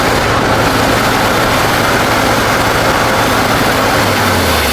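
1970 Chevy C-40 truck's engine running hard at high revs under load as the stuck truck tries to pull up out of a hole; the revs fall off near the end.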